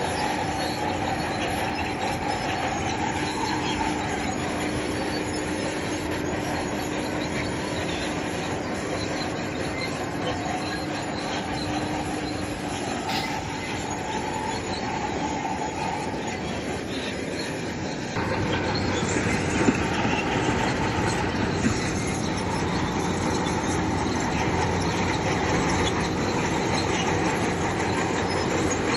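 Bulldozer working: its diesel engine running and its steel tracks grinding and clanking, steady throughout. It gets louder about two-thirds of the way through, with two sharp knocks soon after.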